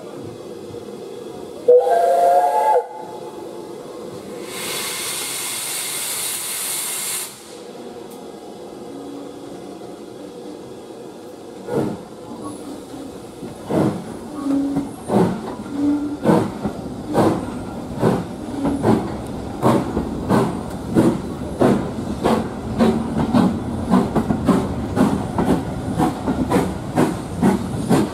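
Steam locomotive whistle sounded once, briefly, then a few seconds of loud steam hissing. The locomotive then pulls away, its chuffing exhaust beats starting slow and quickening steadily.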